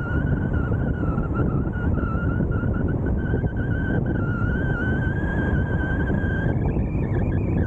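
Car driving on an open road: steady road and wind noise, with a high, slightly wavering whine over it that shifts in pitch about seven seconds in.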